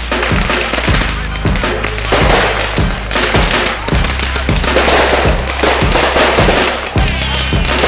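Backyard fireworks going off with dense crackling, over music with a steady beat; a single falling whistle a little after two seconds in.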